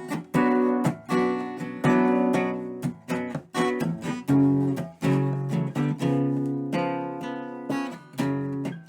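Solo acoustic guitar strumming chords, each struck chord ringing on, one or two strokes a second, as the instrumental lead-in to a song.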